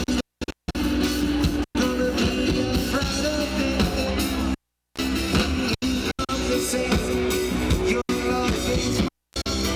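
Live roots reggae band playing, with bass, guitar and drums. The recording cuts out to dead silence several times, briefly each time and for about a third of a second near the middle.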